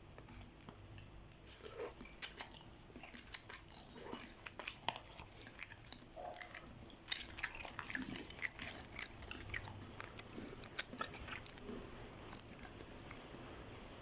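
Close-up eating sounds: a person chewing food, with a run of short, sharp mouth clicks and smacks.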